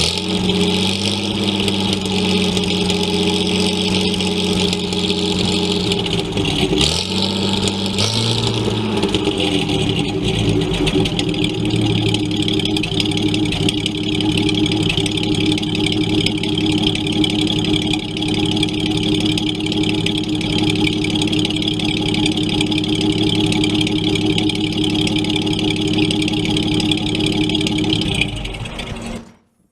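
1933 Chevrolet Master's inline-six engine running, its pitch shifting about seven to eight seconds in, then holding steady before fading out near the end.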